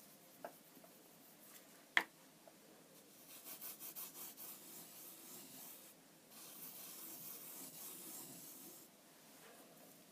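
Faint scratchy rubbing of sand being swept and smeared across a glass drawing surface, in two stretches, with a single sharp click about two seconds in.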